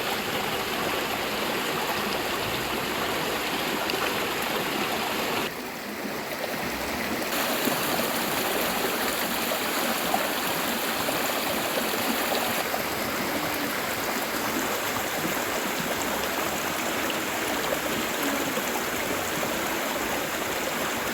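River water running steadily over rocks, a constant rushing flow. Its tone shifts briefly about five seconds in, and again about twelve seconds in.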